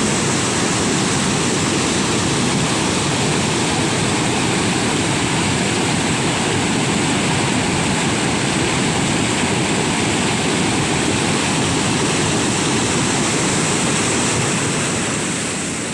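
Steady rush of the flooded Palar River's fast-flowing water, fading out near the end.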